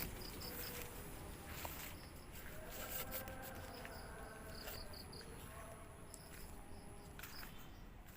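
Insects chirping outdoors in short high pulses that come in little groups, over a thin steady high drone, with a few brief rustles or knocks.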